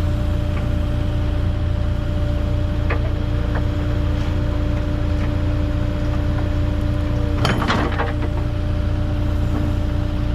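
Excavator engine idling steadily with a constant hum. About seven and a half seconds in there is one short metallic clatter.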